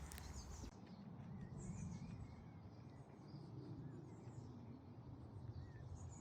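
Faint countryside ambience: scattered small bird chirps and twitters over a steady low background rumble.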